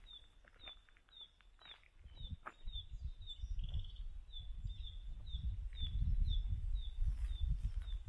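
A bird repeating a short, high, falling chirp about twice a second, over a low rumble that grows louder after about two seconds.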